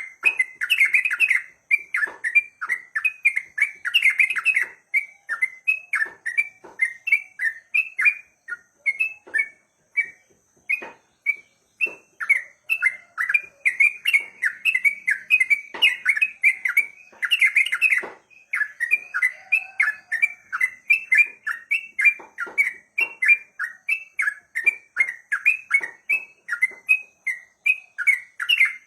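Yellow-vented bulbul (cucak trucuk) singing a long, fast, unbroken run of bubbling notes, several a second, its rapid 'ropel' song, pausing only briefly twice.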